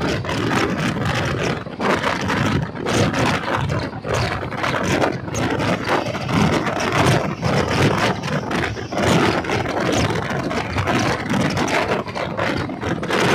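Wheels of a moving Indian Railways passenger coach running over the track: a steady rushing noise with frequent, irregular knocks and clatter, heard from the coach's open door or window.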